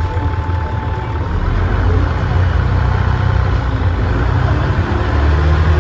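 Dennis Trident double-decker bus's diesel engine running, heard from on board, with a faint whistle from the turbocharger that fades about a second in; the engine note changes near the end.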